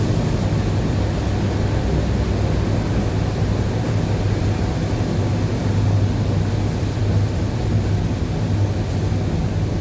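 ED9E electric train in motion, heard from inside: a steady rumble of the running gear over the rails with a low hum underneath.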